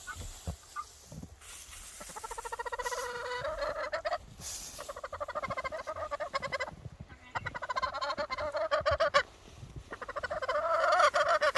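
Domestic poultry calling agitatedly: four long, rapidly pulsing calls in a row, each a second or two long with short breaks between.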